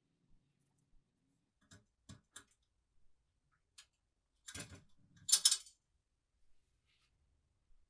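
A few light clicks and taps, then two short scraping rattles a second apart, the second the loudest: parts of an oil lamp being handled.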